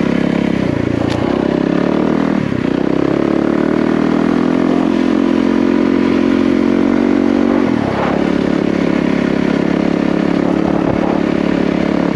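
Yamaha WR450F single-cylinder four-stroke dirt bike engine running under throttle on a rough trail. The engine note holds steady for several seconds, then drops briefly about eight seconds in before picking up again.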